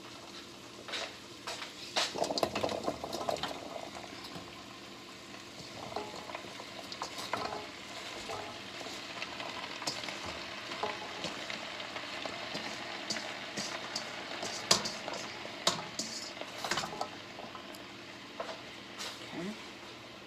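Chicken pieces sizzling steadily in a pan on low heat, with a utensil stirring them and knocking against the pan many times.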